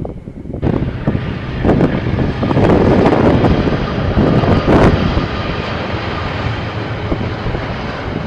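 Train passing close by: a loud, steady rumble that starts abruptly about half a second in.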